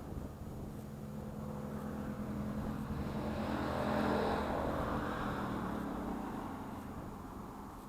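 A car driving past: engine and tyre noise grow louder, peak about four seconds in, then fade away.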